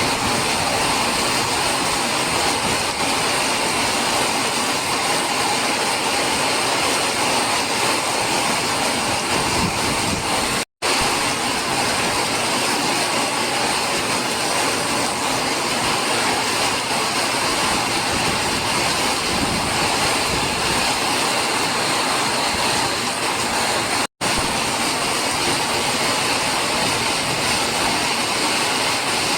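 Heavy stormy rain falling as a steady, dense hiss. It cuts out for an instant twice, about 11 and 24 seconds in.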